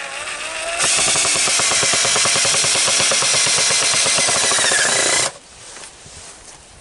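Power drill driving a screw to fix an L bracket to a wooden birdhouse. It runs softly for a moment, then at full speed from about a second in for roughly four and a half seconds, and stops suddenly.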